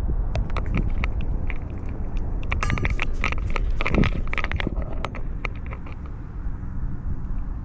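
Cat-collar camera microphone picking up its own handling noise as the cat moves: irregular clicks and jingles from the collar over a low rumble, busiest in the middle and thinning out near the end.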